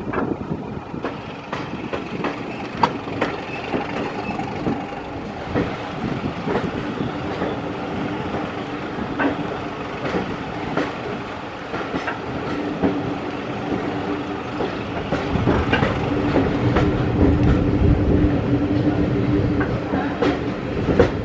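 Moving Mk1 passenger coaches rattling along the track, with frequent sharp wheel clicks and knocks over rail joints. Under them runs the steady drone of the hauling Class 31 diesel locomotive. The rumble and drone grow louder about fifteen seconds in.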